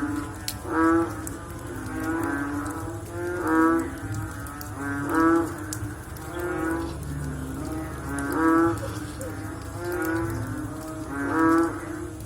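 A chorus of frogs calling after rain: low, repeated croaks every second or two, several frogs overlapping, with the nearest calls standing out loudest.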